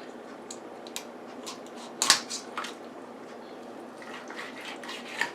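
Knife cutting down the backbone of a raw Cornish hen on a cutting board: a series of short crunches and clicks as the blade goes through bone and cartilage, the loudest about two seconds in and another run of them near the end.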